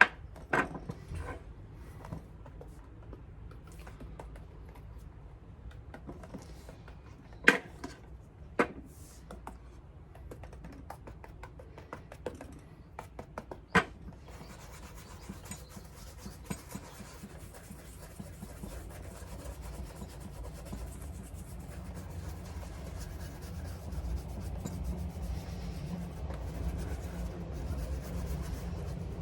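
Polishing work on a Paraboot Michael leather shoe: rubbing and scratching on the leather, with a few sharp clicks in the first half. About halfway through a steady, continuous rubbing sets in.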